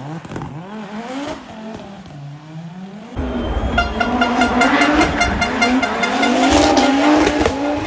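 Rally car engine revving up and down hard through gear changes. It gets suddenly louder about three seconds in as the car comes close, with tyre squeal under hard cornering.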